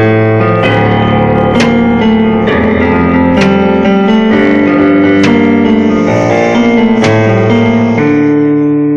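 Band music led by keyboard chords, moving through chord changes on a steady beat and settling on a long held final chord near the end.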